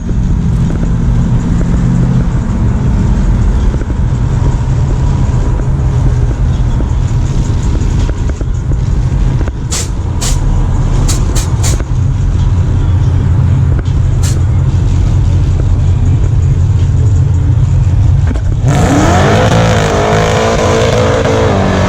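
Donk car's engine rumbling loudly with a deep exhaust note as it pulls out, with a few sharp clicks around the middle; near the end it revs hard, pitch climbing, as it accelerates away.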